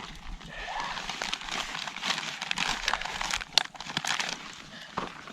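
Plastic wrapping crinkling and rustling as it is handled and opened, with a few sharper clicks.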